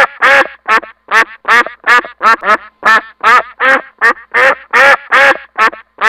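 Duck quacking repeatedly, about three quacks a second in a steady run.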